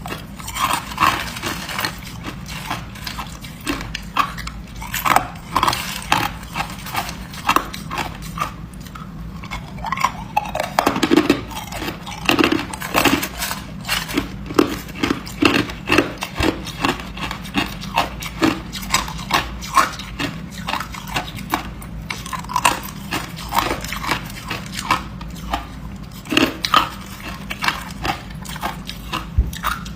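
A person biting and chewing hard ice: sharp, irregular crunches several times a second, with a steady low hum underneath.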